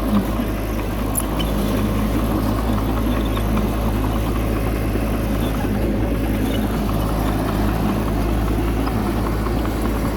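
Bulldozer's diesel engine running at a steady low drone, with one short knock right at the start.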